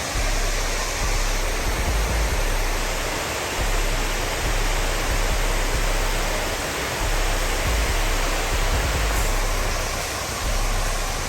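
Steady rush of water pouring down into a 9/11 Memorial reflecting pool, with wind buffeting the microphone in irregular low rumbles.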